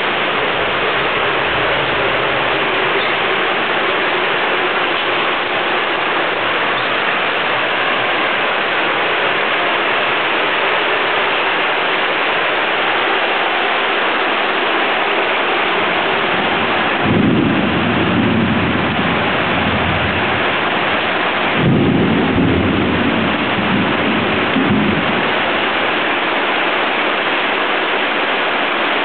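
Heavy rain falling steadily in a thunderstorm, with two loud claps of thunder rumbling a little past the middle, the second about five seconds after the first.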